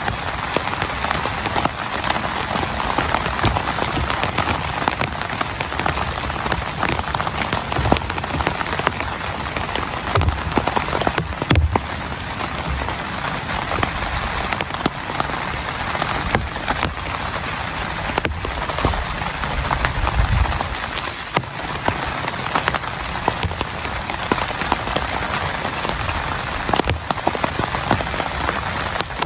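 Heavy rain falling steadily on a tent, with many sharp individual drop impacts over the hiss of the downpour.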